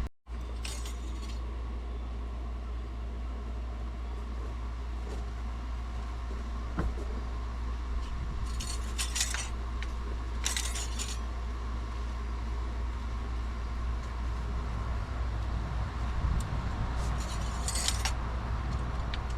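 Light metallic clinks and jingles of tools or parts being handled, in short clusters about a second in, around nine and eleven seconds, and near the end, over a steady low hum.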